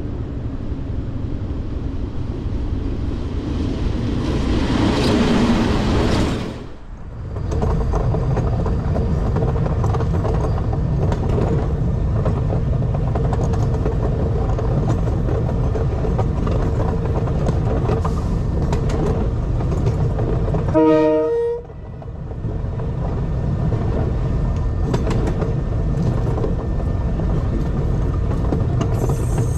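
Diesel locomotives of a train running steadily. A rush of noise builds over the first few seconds and cuts off suddenly about seven seconds in. A short horn toot sounds about two-thirds of the way through.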